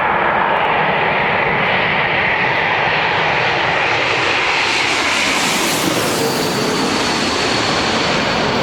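Jet airliner landing, its engines making a loud steady noise with a whine that slides down in pitch; the high hiss grows strongest about six seconds in.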